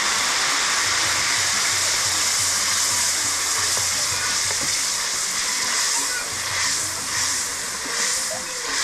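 Blended tomato and pepper mix sizzling steadily in hot oil in a large aluminium pot over a wood fire, a loud continuous hiss, as it is poured in and stirred with a wooden spoon.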